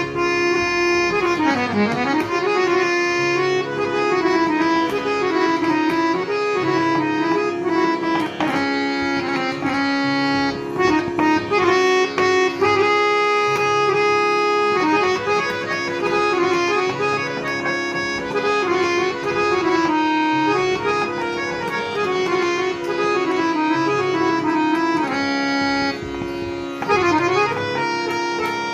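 Harmonium playing a melody over held drone notes, with quick ornamented runs in the tune.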